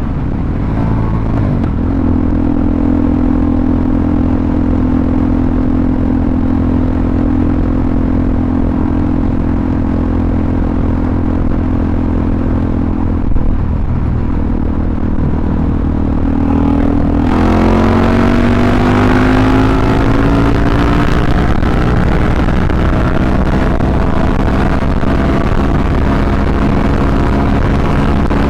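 Suzuki DRZ400SM's single-cylinder four-stroke engine running through a full Yoshimura RS-2 exhaust, holding a steady note while cruising. About two-thirds of the way through the engine note rises as it accelerates and wind rush gets louder, then it settles at a higher steady pitch.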